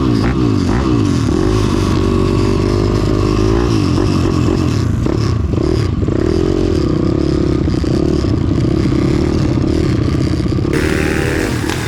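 Pit bike engines running hard, their pitch rising and falling as the riders rev up and back off through the corners.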